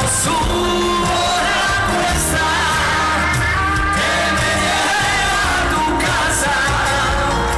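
Live Spanish pop-rock band performance with a lead vocal singing over full band accompaniment, loud and steady.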